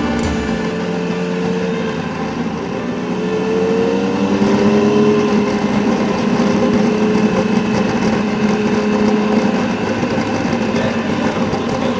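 Adventure motorcycle engine running under way, its pitch rising a little about three seconds in and then holding steady, over a steady hiss of wind and road noise.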